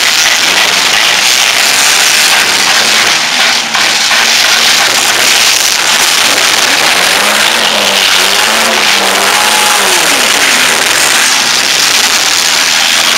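Several four-cylinder compact demolition-derby cars' engines running and revving together, their pitch rising and falling, under a dense, loud din.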